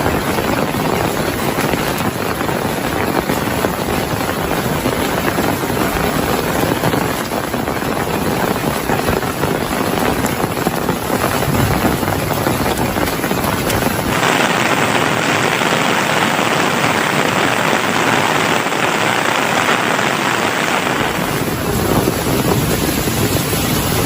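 Heavy rain: a loud, steady hiss with a low rumble beneath it. A little past halfway the rumble drops away and a brighter, sharper hiss of rain takes over for several seconds, before the fuller sound returns near the end.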